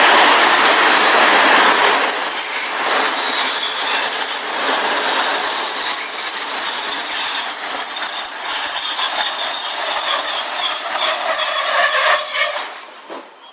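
A train rolling past at close range, its wheels squealing with a steady high tone over the clatter of wheels on rail joints. The sound drops away abruptly near the end.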